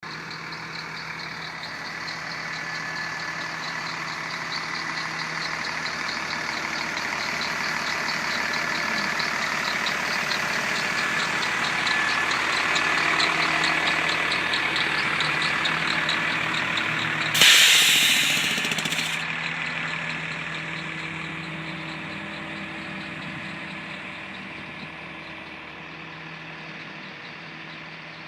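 Refuse truck's diesel engine idling steadily, then the air relief valve lets go about 17 seconds in with a sudden loud hiss lasting about two seconds before it fades back to the idle.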